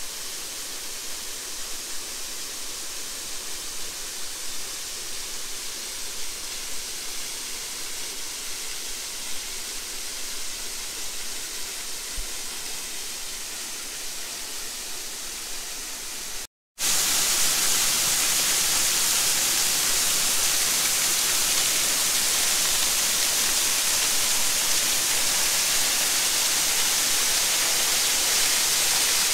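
Waterfall rushing, a steady hiss of falling water. It breaks off for a moment just over halfway through and comes back louder and closer.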